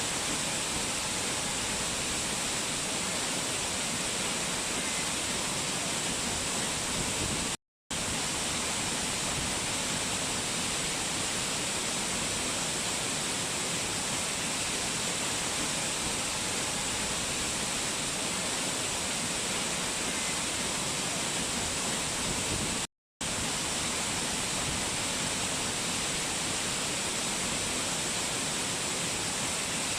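Rushing mountain water from a waterfall, a steady, even hiss strongest in the high range. The sound cuts out completely for a split second twice, about 8 seconds and 23 seconds in.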